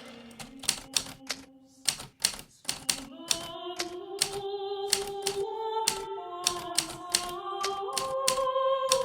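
Hermes Baby typewriter keys striking in an irregular rhythm, with a short pause about two seconds in. Soft music of held notes plays underneath and swells about three seconds in.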